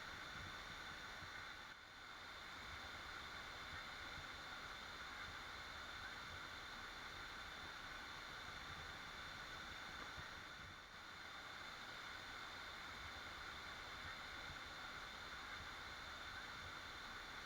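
Waterfall: a steady, fairly faint rush of falling water, dipping briefly twice.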